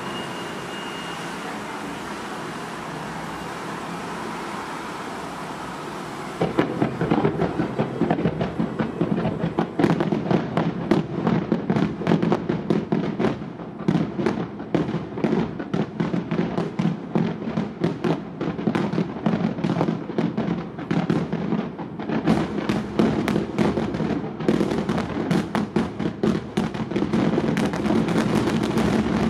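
Fireworks shells fired in a rapid barrage, many sharp bangs a second overlapping, starting about six seconds in after a steady hiss of background noise and continuing to the end.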